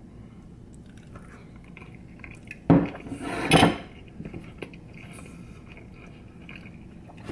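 A person chewing a bite of chicken, quiet mouth sounds, with two short, loud noises close together about three seconds in and a few small clicks afterwards.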